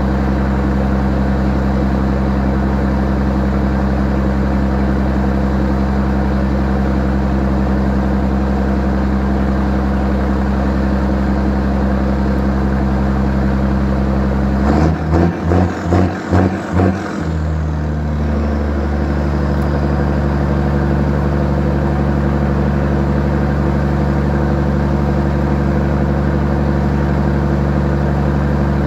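Scania 111 truck's six-cylinder diesel engine running steadily at idle after its first start of the day. About halfway there is a brief run of about six quick surges, after which it settles into a slightly different steady note.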